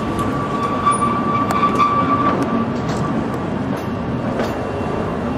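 Oigawa Railway Ikawa Line passenger train running, heard from inside a carriage: a steady rumble and rattle of the wheels on the track, with a thin high whine through the first couple of seconds.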